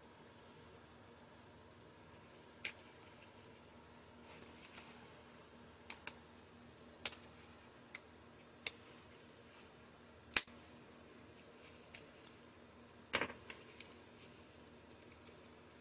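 Scattered sharp clicks and clinks of small plastic and metal microwave parts being pried loose and handled, about a dozen irregular knocks with the loudest near the middle and about three-quarters of the way through.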